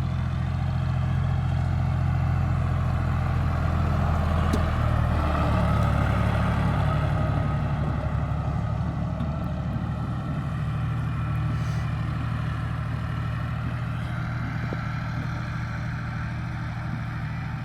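John Deere 5045 tractor's diesel engine running steadily, its note stepping down slightly about five seconds in.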